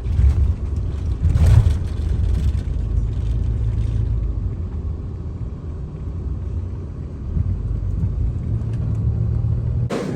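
Low, steady rumble of a car on the road, heard from inside the moving car. It cuts off abruptly just before the end.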